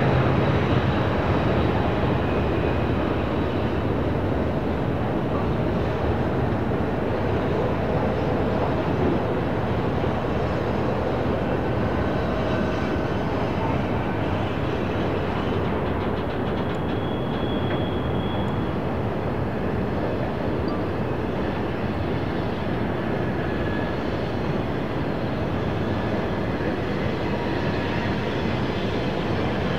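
Freight train rolling past: a steady rumble of wheels on rail that is heaviest at the start, with a few faint, brief high tones here and there.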